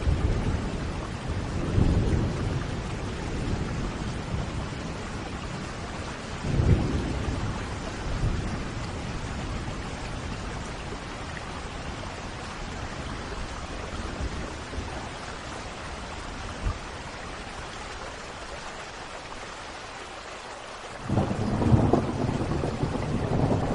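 Thunderstorm: steady heavy rain with rolls of thunder, a few low rumbles early on and a louder, sudden thunderclap and rumble about 21 seconds in.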